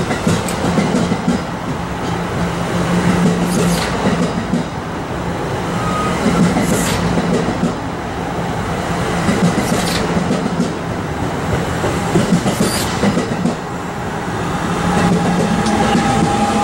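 Passenger train rolling past, with a steady rumble and the wheels clicking over rail joints about every three seconds.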